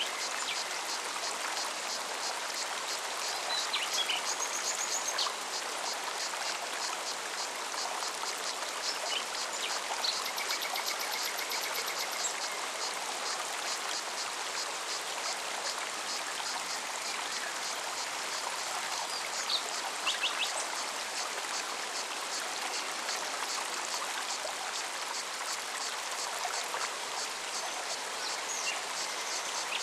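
Steady rushing of a mountain forest stream, with a cicada's high, rapid, evenly pulsed song throughout. Short bird chirps and trills come and go, most clearly about 4, 10 to 12 and 20 seconds in.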